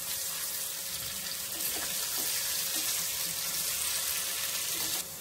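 Ginger-garlic paste sizzling in hot oil in a karahi, a steady high hiss, with a wooden spatula stirring and scraping faintly. The sound drops suddenly near the end.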